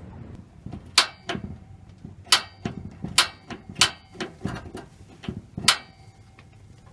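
A series of sharp metallic clanks and knocks, about six loud ones at uneven intervals with fainter taps between, each leaving a brief ringing tone.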